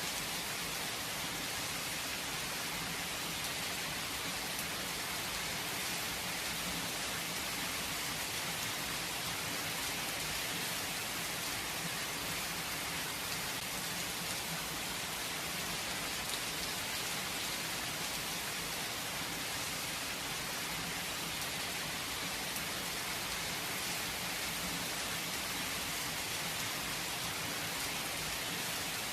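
Steady, gentle rain falling and pattering on surfaces, with no thunder.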